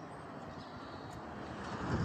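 A steady rushing drone of a distant passing vehicle, swelling near the end, with a few faint, high, short bird chirps over it.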